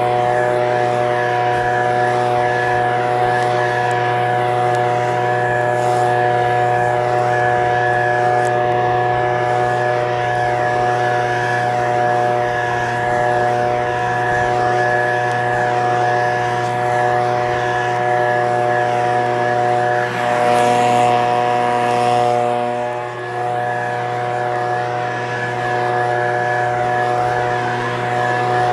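Echo PB-2620 handheld leaf blower's small two-stroke engine running at a steady speed, with a brief dip in level about three-quarters of the way through.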